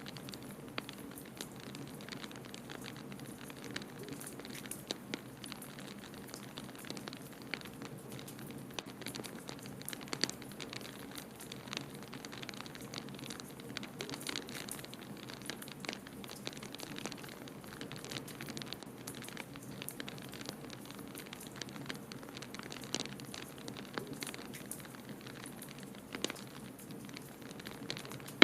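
Wood fire crackling in a fireplace: frequent irregular small pops and snaps over a steady low rushing noise.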